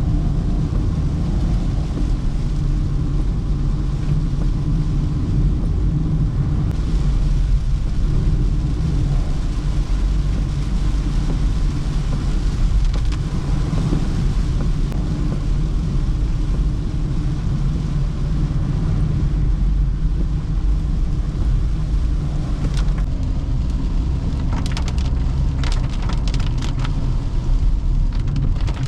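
Toyota Hyryder hybrid driving on a wet road in rain: a steady low rumble of tyres and drivetrain with the hiss of rain and spray. About 23 seconds in, a run of short, sharp ticks begins.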